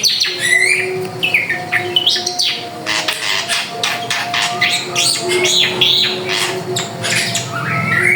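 Drongo singing a rapid, varied run of sharp chirps, whistles and gliding notes, over a faint steady hum.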